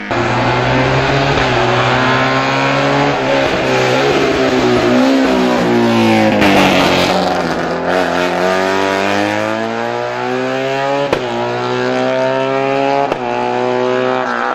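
Racing car engine revving hard, its note climbing and falling again and again as it accelerates and backs off. About halfway through the pitch sinks low as the car slows, then climbs back up.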